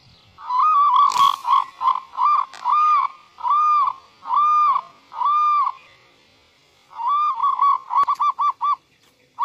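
A bird's loud repeated call: clear, arched whistled notes on one pitch, about one and a half a second, breaking off and returning as a quicker run of short notes near the end.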